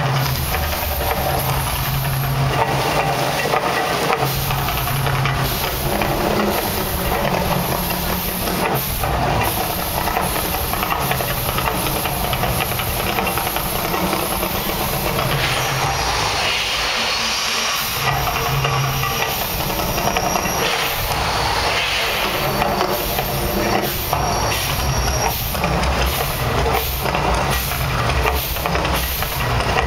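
Mirage volcano show erupting: a loud, steady hissing rush from its water and fire effects with a deep rumble coming and going underneath, and a run of sharp short bursts near the end.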